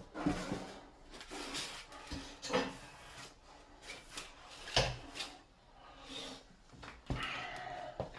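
Irregular knocks, clunks and scraping: hard panels or boards being handled and shifted about, several sharper knocks among the rubbing.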